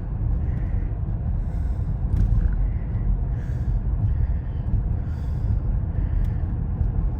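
Road noise inside a moving car: a steady low rumble of engine and tyres, with faint hissing swells about once a second.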